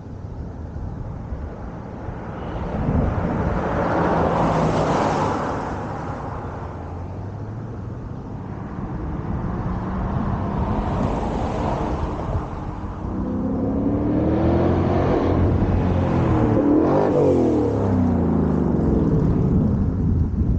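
2021 Ford Mustang GT's 5.0 L Coyote V8 through a Borla ATAK cat-back active exhaust, being run up under power several times, its engine note rising and falling in pitch and loudest in the second half.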